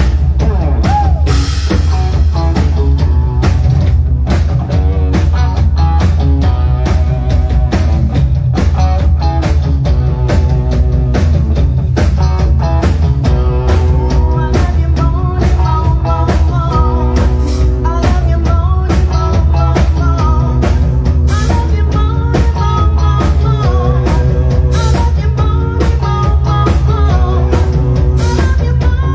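Rock music played loud on drum kit and guitar, with a steady beat.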